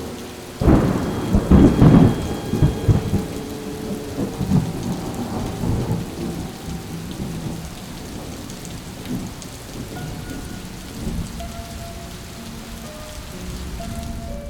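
A loud thunderclap about a second in, rumbling and dying away over several seconds, over steady rain.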